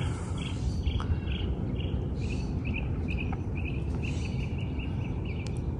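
Small bird chirping in a run of short, high calls, about two a second at first and then quicker, around four a second, over a steady low outdoor background rumble.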